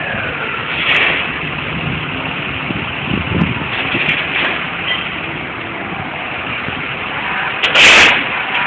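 Steady city street traffic noise, with a loud, short burst of noise about eight seconds in.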